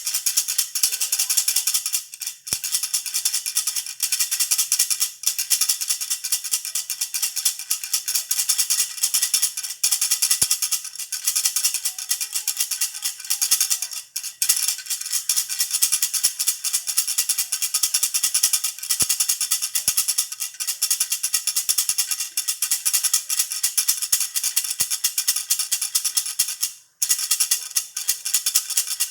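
Baby rattle (jhunjhuna) shaken continuously, a dense, fast, high rattling with a few brief breaks.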